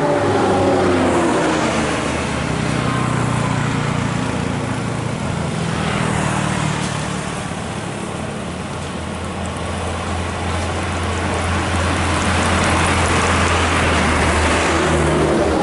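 Heavy road vehicles passing close by: a steady low engine drone with tyre and road noise that swells and fades twice as vehicles go past, and a falling pitch in the first couple of seconds as one passes.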